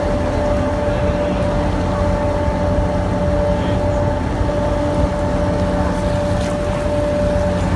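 Canal tour boat's engine running steadily, heard from on board as a constant drone with a steady hum.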